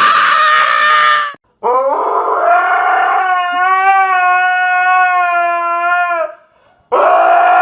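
Husky howling: one long, steady howl of about four and a half seconds, with a second howl starting near the end. A short high squeal fills the first second or so.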